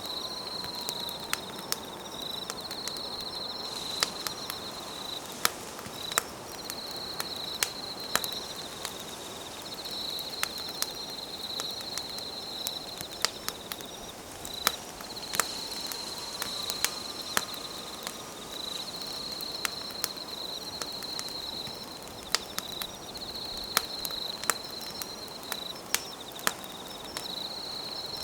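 Campfire crackling and popping in sharp, irregular snaps over a steady hiss of burning wood, with an insect trilling high in repeated bursts of about two seconds each.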